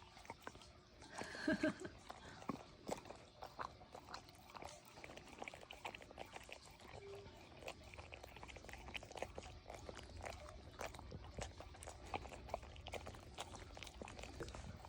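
A Labrador eating: a long run of quick, irregular wet clicks of chewing and licking, with one short voiced sound about a second and a half in.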